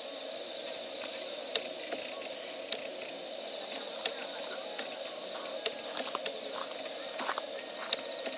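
Wood campfire crackling, with scattered sharp pops and snaps over a steady background hiss. A steady high-pitched tone runs underneath.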